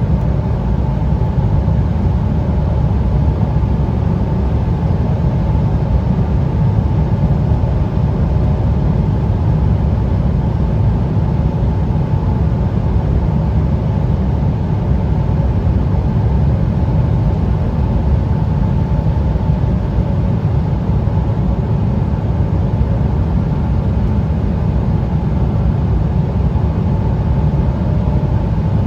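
Cabin noise inside an Embraer 175 regional jet on final approach: the steady low rumble of airflow and its GE CF34 turbofan engines, with a faint hum of steady tones above it. The level holds even throughout, with no bumps or knocks.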